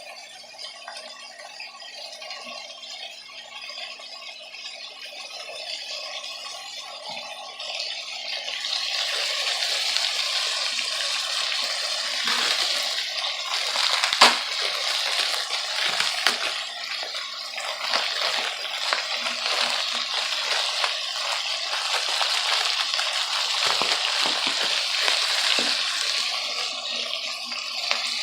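Water running steadily from a tap, starting up about eight seconds in, with a few knocks and clatters.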